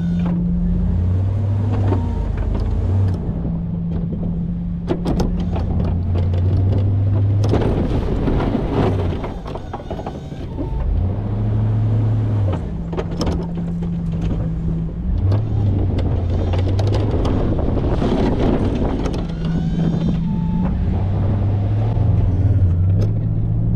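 Ford pickup truck engine working a snow plow, its pitch stepping up and down as it revs, with scattered knocks and clunks.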